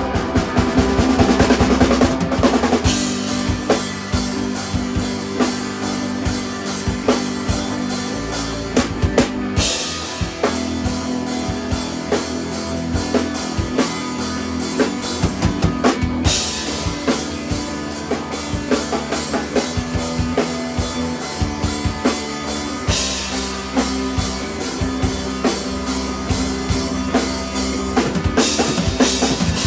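A three-piece instrumental rock band playing live, the drum kit to the fore with kick, snare and cymbals over sustained electric guitar, cymbal washes swelling in at several points.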